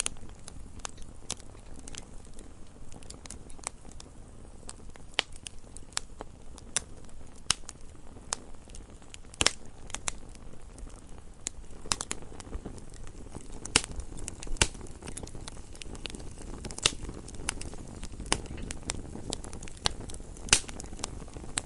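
Wood fire crackling: irregular sharp pops and snaps, a few louder than the rest, over a low steady rumble of burning.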